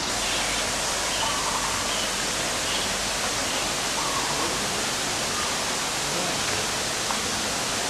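Steady, even rushing hiss with a few faint, short chirps.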